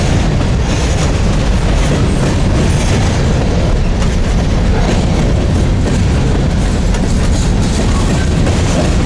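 Covered hopper grain cars of a freight train rolling past close by: a steady loud rumble of steel wheels on the rails, with clicking as the wheels pass over the track.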